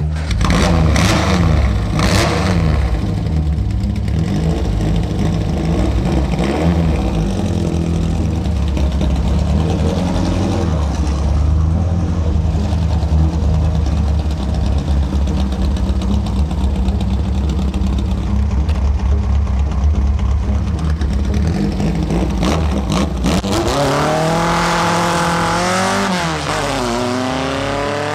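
Porsche 914-based 2.1-litre air-cooled flat-four in a 1953 VW Beetle, running with a steady deep rumble as the car pulls away. Near the end the engine revs up and back down twice as it accelerates.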